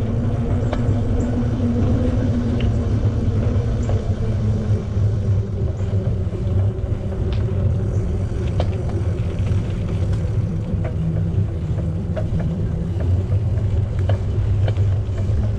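Steady low rumble of riding a bicycle: wind buffeting the microphone and tyres rolling on pavement, with scattered small ticks and clicks.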